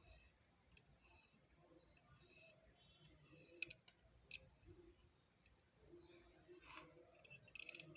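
Near silence, with faint bird chirps in the background, a couple of sharp clicks and a quick run of ticks near the end.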